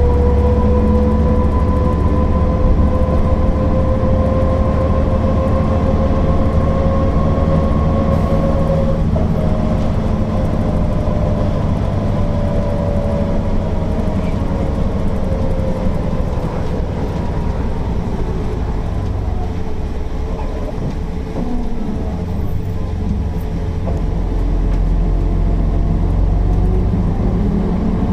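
Mercedes-Benz O408 bus's diesel engine and driveline running under way, a low rumble with a whine that rises slowly and drops about a third of the way in. The bus then eases off, the sound falling through the middle, before it pulls away and builds again near the end.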